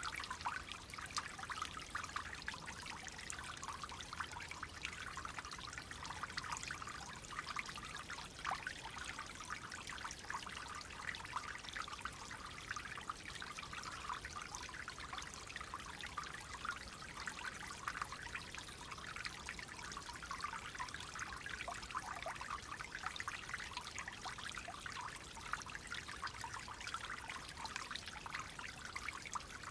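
Clear water flowing gently, a steady trickle made of many tiny splashes.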